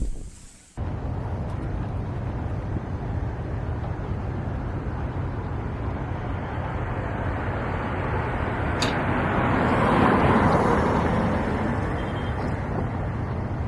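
Steady rumble of a moving vehicle that swells in loudness about ten seconds in, then eases off.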